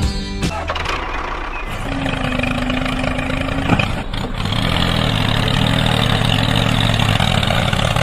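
A motor running steadily, settling into an even hum from about four seconds in, with a click near the middle. The last moments of background music end about half a second in.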